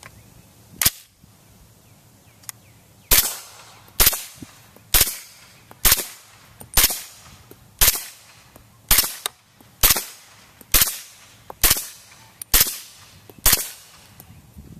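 Suppressed .300 Blackout firing 208-grain subsonic rounds through an AAC SDN-6 suppressor: one shot about a second in, then after a pause a steady string of twelve shots about one a second.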